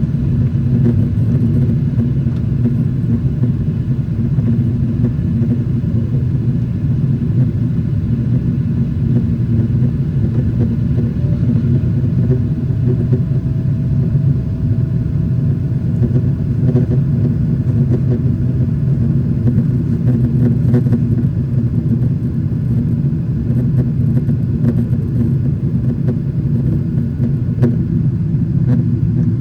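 Boeing 777-300ER's GE90 jet engines running, a steady low rumble that holds level.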